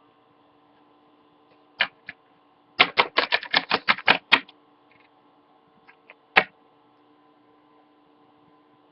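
Small plastic Littlest Pet Shop toy figure tapped on a hard surface to mimic footsteps: two taps, then a quick run of about nine taps at roughly six a second, then a few scattered taps.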